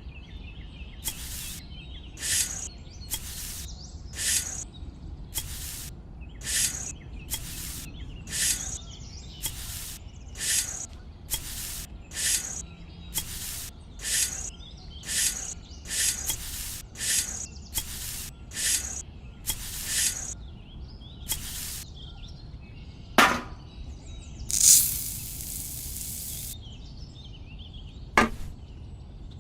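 Repeated short scraping strokes, about two a second, from a hand tool working material, with a low steady hum underneath. Near the end they stop, followed by a sharp knock, a longer hissing stroke of about two seconds, and another knock.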